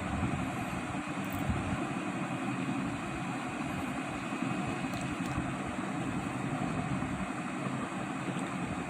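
Car engine idling, a steady low rumble with a faint steady high tone above it.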